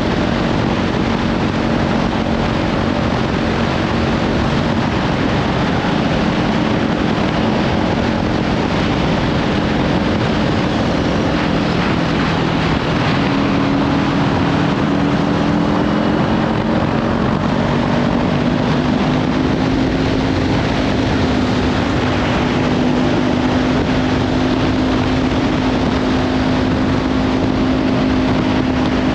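Kawasaki Ninja 500's parallel-twin engine, with a Leovince slip-on exhaust, running at road speed under heavy wind noise on the microphone. The engine note shifts about halfway through and then climbs slowly.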